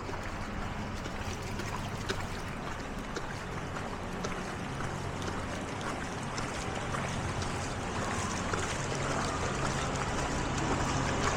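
A vehicle's engine running steadily while moving through floodwater, with water sloshing and splashing around it. It grows a little louder near the end.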